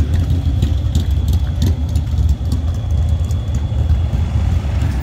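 A motorcycle engine runs at low speed with a steady low rumble. A few short clicks come in the first couple of seconds.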